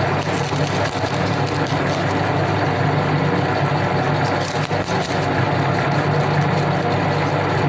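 Electric meat grinder's motor running steadily with a low hum, with scattered small clicks and crackles from the grinding.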